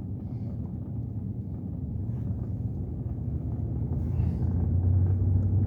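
Vehicle engine and road noise heard from inside the cab: a low rumble that grows steadily louder, with a steady low hum setting in near the end.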